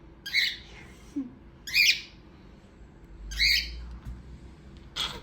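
Pet parrot squawking: three short calls about a second and a half apart, then a brief sharp sound near the end.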